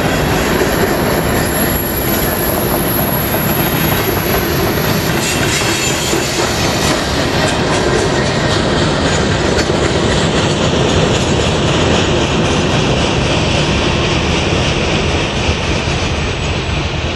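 CN freight train of covered hopper and tank cars rolling past close by: a steady rumble and clatter of steel wheels on the rails, with some thin high wheel squeal. It eases off slightly near the end.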